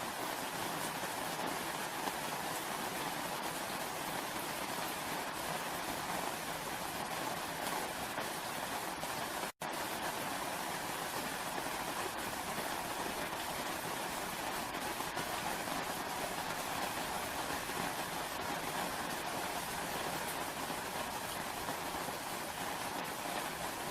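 Steady rainfall, an even hiss with no pauses except a momentary break to silence about ten seconds in.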